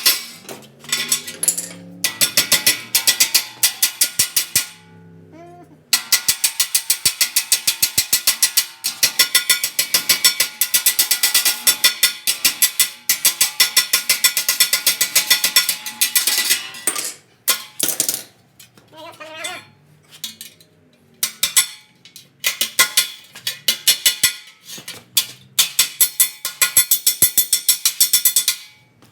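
Hammer blows on sheet steel in quick runs of several strikes a second, with short pauses between runs: the metal of a door patch panel being stretched and shaped.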